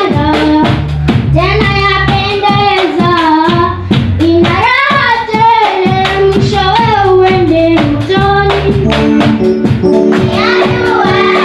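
Voices singing a church song over a low instrumental accompaniment with a steady beat.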